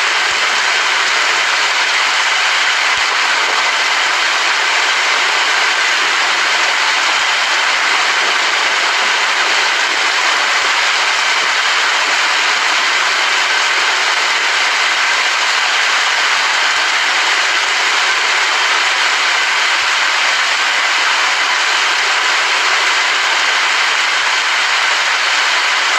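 Steady rain falling, an even hiss with no changes or thunder claps.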